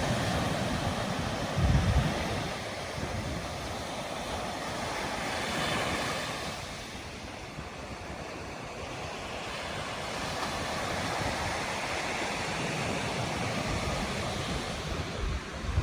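Ocean surf, with waves breaking and washing up the beach in a rushing wash that swells and fades every few seconds. A brief gust of wind buffets the microphone about two seconds in.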